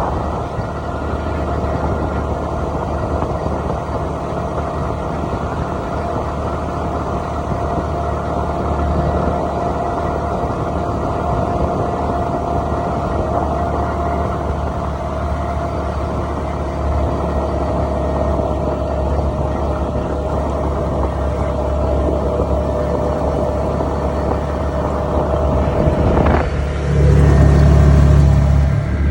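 A car engine running steadily with a low rumble and a steady hum, growing louder and deeper near the end.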